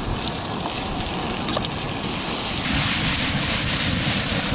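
Wind buffeting the microphone, with onion, garlic and vegetables sizzling in a hot wok on a gas burner. The sizzle turns louder and brighter about two-thirds of the way in.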